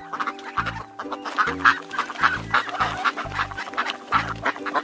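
Mallard duck quacking in quick, repeated calls over background music with a steady bass beat.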